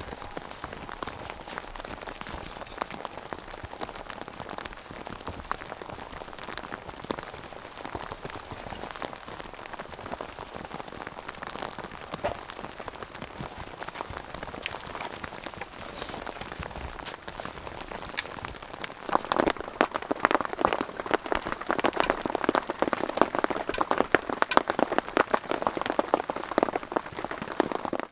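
Rain pattering steadily, many small drops tapping densely on a surface; it grows heavier and louder about two-thirds of the way through.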